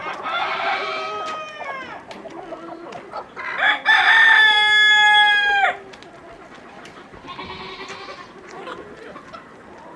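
Roosters crowing: one crow at the start, a loud crow about three and a half seconds in, held for about two seconds and dropping in pitch as it ends, and a fainter call a little later.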